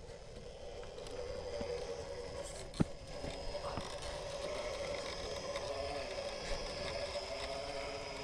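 Electric motor and gear drivetrain of an RC rock crawler truck whining steadily as it crawls over rocks. A sharp knock comes about three seconds in, with a few lighter clicks.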